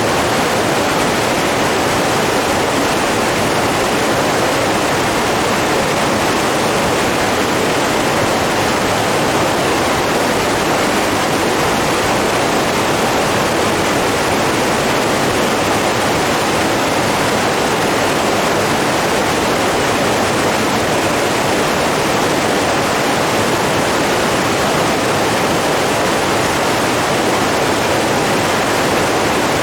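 Steadily rushing water, an even, unbroken flow with no other sounds standing out.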